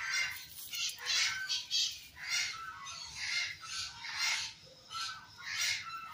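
Parrots squawking over and over: harsh, raspy calls about two a second, some overlapping. The birds are being fed, which sets them calling.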